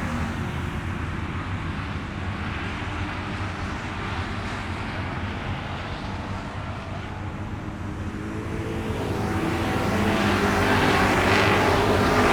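Vehicle engine running with a steady drone that grows quieter through the middle, then louder again from about three-quarters of the way in.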